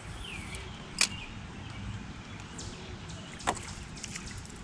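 Birds calling with short, curving chirps over a low outdoor rumble, with two sharp clicks, one about a second in and another about two and a half seconds later.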